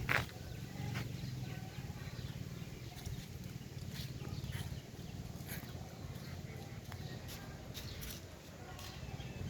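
Monkeys calling: one louder short squeal at the start, then scattered brief high chirps, over a steady low rumble.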